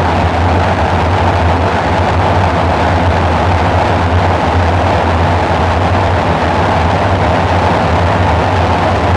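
Dark ambient synthesizer drone: a steady low hum under a noisy, hissing wash, with no beat and no change.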